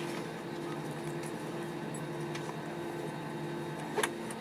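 Steady cabin drone inside an Airbus A320-214 on the ground before takeoff, a hum with two steady tones, with a short sharp click about four seconds in.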